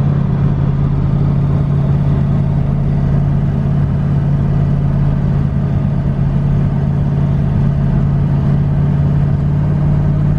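Twin-turbo LS V8 in a Fox Body Mustang running at a steady cruise, heard from inside the car: a loud, even exhaust drone with no mufflers fitted.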